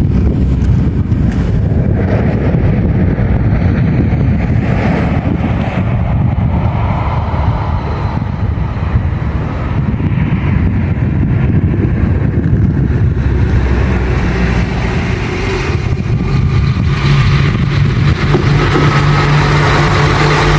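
Train running close by with a loud, continuous rumble of engine and wheels; in the last few seconds a steady engine hum comes through.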